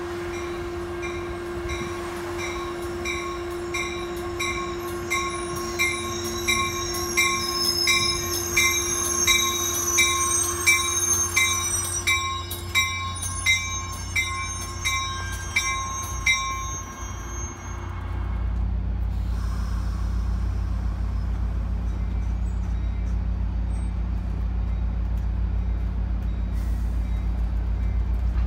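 Caltrain commuter train pulling into the station: a warning bell rings about twice a second and the wheels or brakes squeal high-pitched. About two-thirds of the way through, the bell and squeal stop and a steady deep diesel rumble takes over as the train stands at the platform.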